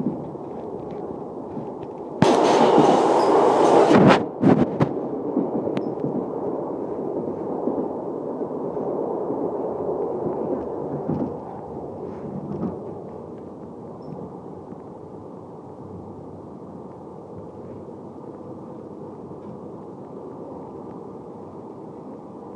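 Train running along the line, heard from aboard: a steady rumble of wheels on rails. A sudden loud rushing blast lasts about two seconds a couple of seconds in, and the rumble grows quieter about halfway through.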